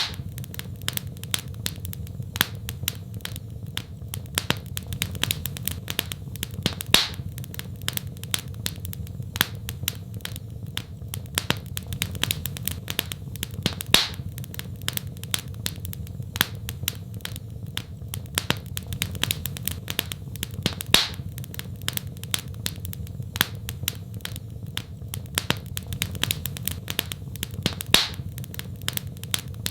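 Wood fire in a fireplace crackling, with many sharp snaps and pops over a steady low rumble. A louder pop comes about every seven seconds.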